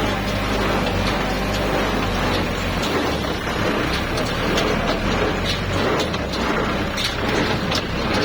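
Tractor diesel engine running steadily, with short knocks or clanks in the second half.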